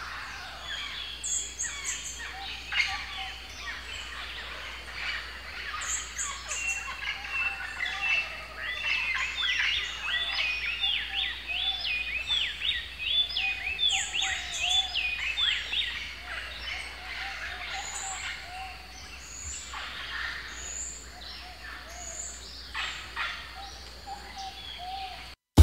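Tropical forest ambience of many birds calling and chirping at once, with a fast run of repeated whistled notes from about 9 to 16 seconds in. It cuts off abruptly near the end.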